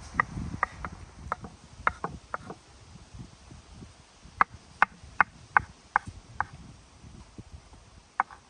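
Knife chopping boiled egg white on a cutting board: sharp knocks of the blade on the board, two or three a second, with a pause of about two seconds in the middle.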